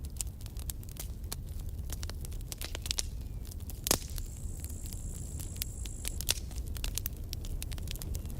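Campfire of burning wood crackling and popping steadily over a low rumble, with one loud pop about four seconds in. Right after it, a thin high whistle sounds for about two seconds.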